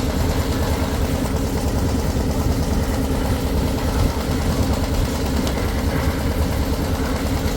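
An engine running steadily at a constant speed, with an even low rumble.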